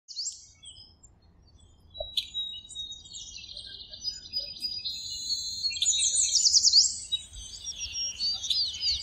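Several birds chirping and trilling in overlapping high-pitched calls: a lone chirp at the start, a near-quiet second, then rapid trills and sweeping notes that build to a dense chorus about two-thirds of the way through.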